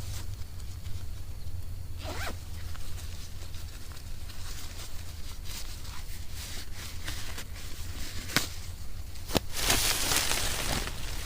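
Camping gear being handled: scattered clicks and knocks, then a rasping, zip-like noise lasting about a second near the end.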